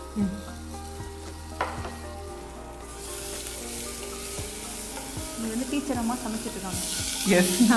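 Crushed garlic and ginger frying in hot ghee in a stainless-steel pressure-cooker pot, sizzling as they are stirred with a wooden spatula, with a few light knocks of the spatula on the pot. The sizzle grows louder about three seconds in and again near the end.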